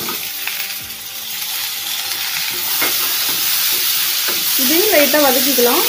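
Sliced onions and tomato wedges sizzling in hot oil in a kadai as they are stirred with a wooden spatula, the sizzle growing gradually louder, with a few faint spatula knocks against the pan. A voice is heard over it near the end.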